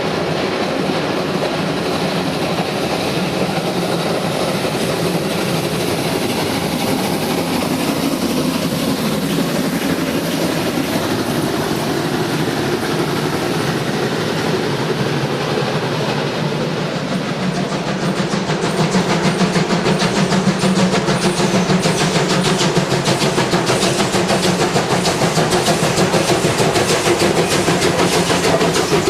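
Train running on the line, a continuous rumble and clatter that grows louder about two-thirds of the way through, where a fast, regular beat sets in.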